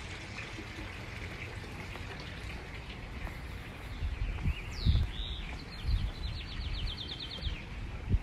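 A small bird calls about halfway through: a falling chirp, then a fast trill of about a dozen short high notes. Low footstep thumps and a steady outdoor background hiss run beneath it.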